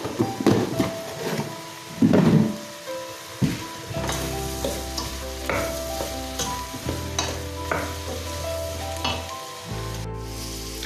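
Sliced mushrooms sizzling as they sweat in a stainless steel stockpot, stirred and tossed by hand, with a few louder rustles and knocks in the first couple of seconds. Background music plays with steady sustained notes.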